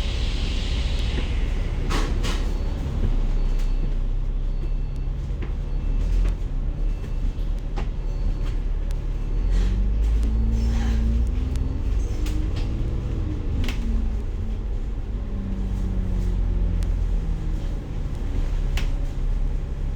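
Inside a moving bus: a steady low engine rumble with scattered rattles and knocks from the cabin. A hiss fades out in the first second, and about halfway through a whine rises and then falls in pitch.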